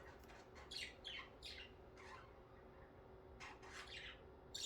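Pet budgerigars chirping faintly: short falling chirps every half second or so, with a couple of sharper squawks near the end, over a faint steady hum.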